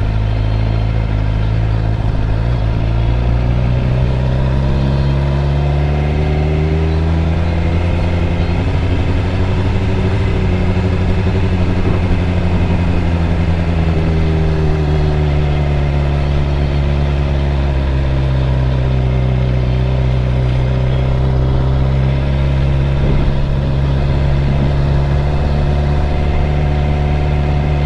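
Suzuki GSX-R 600 inline-four engine running at fairly low revs while riding, its pitch rising and easing back several times as the throttle is opened and closed.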